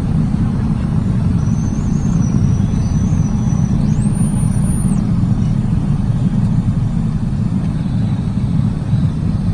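Learjet business jet after landing: a steady low rumble, with a thin high whine that steps up in pitch about four seconds in and stops a second later.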